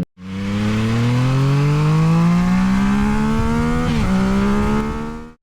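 Yamaha Tracer 900's three-cylinder engine accelerating hard, its note rising steadily, then dropping at an upshift about four seconds in and holding steady, with wind noise over it.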